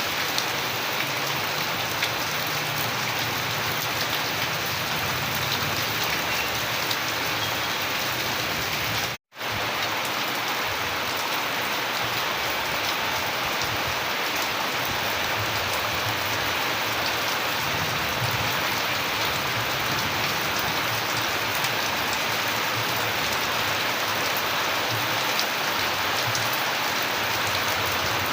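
Steady rain falling, an even hiss with scattered drop taps. About nine seconds in, the sound cuts out completely for a split second.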